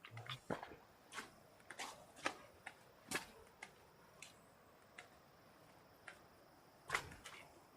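Footsteps on a slippery trail: irregular short scuffs and clicks, several close together at first, thinning out in the middle, and bunching again near the end.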